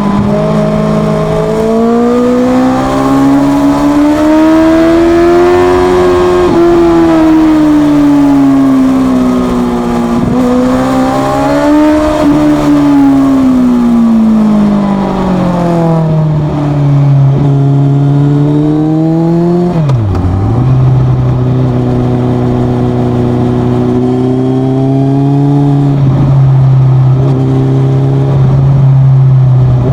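Suzuki GSX650F's inline-four engine through a Leo Vince exhaust with the dB killer removed, accelerating and easing off in repeated swells of pitch, with sudden drops in pitch about a third and two-thirds of the way in; in the second half it runs at a steadier pitch.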